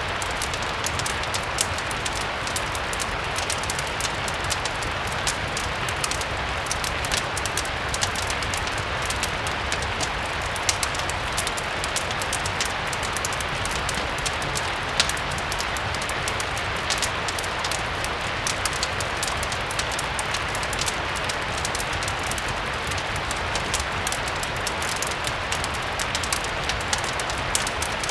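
Steady rain mixed with a crackling fireplace: a continuous even hiss scattered with frequent small, sharp crackles.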